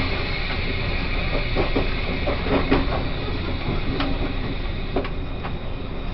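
Taiwan Railways E1000 push-pull express train running, heard from inside the carriage: a steady rumble with a high, steady whine over it and a few sharp knocks from the wheels over rail joints.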